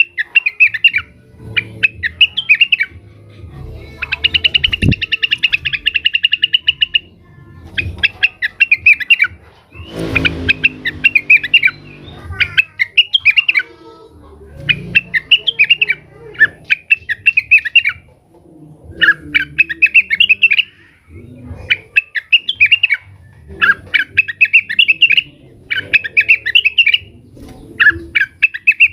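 Greater green leafbird (cucak wilis) singing in repeated short, chattering phrases, with a long fast trill about four seconds in and a harsher call about ten seconds in. This is the bird's worked-up, non-stop song, calling out as if to a rival.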